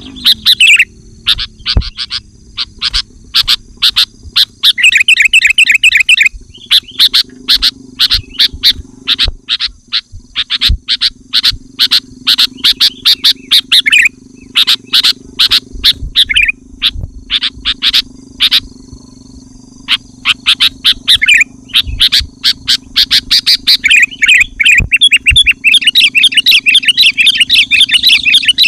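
Sooty-headed bulbul singing loudly in dense, rapid runs of quick chattering notes, broken by short pauses and one longer break about two-thirds of the way through.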